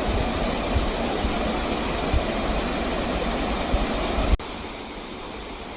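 Steady rush of a broad curtain waterfall, with a few low thumps; about four seconds in it cuts abruptly to a quieter, more distant-sounding rush.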